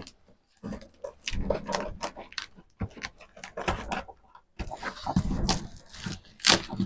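Packaging being handled while a box is opened: an irregular run of rustling, scraping and knocks, with short pauses between.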